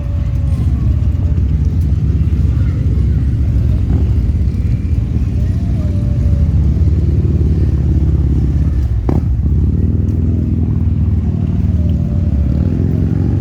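Harley-Davidson V-twin motorcycle engine running with a loud, steady low rumble, swelling slightly midway. A single sharp click comes about nine seconds in.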